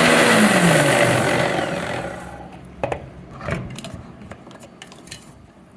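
Bosch 600 W mixer grinder running with roasted coriander seed in its dry-grinding jar, then switched off: the motor's whine drops in pitch and winds down over the first two seconds. A few light knocks and clatters follow.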